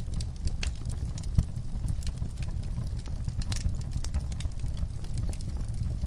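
Wood fire burning in a fireplace: irregular crackles and snaps over a steady low rumble of the flames, with one louder pop about a second and a half in.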